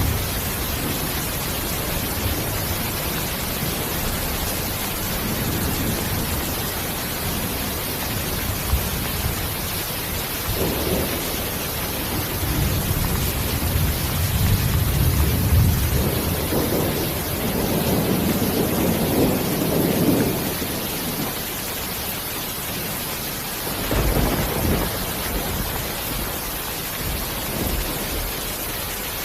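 Steady rain with low rolls of thunder rumbling through the middle and a shorter rumble near the end.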